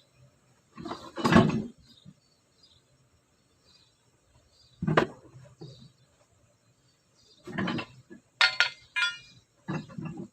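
Metal car parts and tools being handled: about five separate clanks and knocks. The loudest comes about a second in, and one about eight and a half seconds in rings briefly like struck steel.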